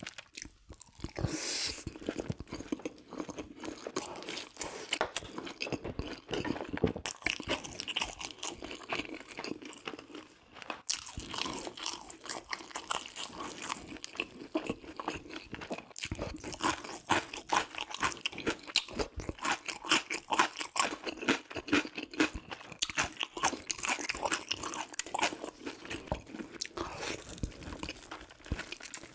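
Close-miked crunching and chewing of crispy fried chicken: a dense run of crackling bites and chews, with a short pause about ten seconds in.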